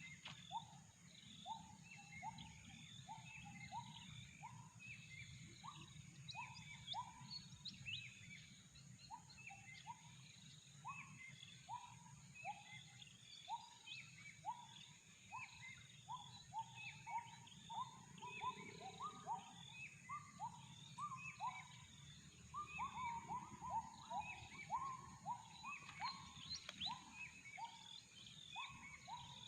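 Wild gibbons (uwa-uwa) calling in a long series of short rising hoots, about two a second, growing faster and denser in the second half, over a chorus of small bird chirps and a steady high insect drone.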